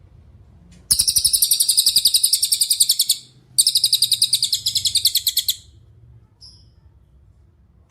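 Cililin singing two long, loud, rapid trills of evenly repeated high notes, the second starting after a short break, followed by a couple of brief faint notes.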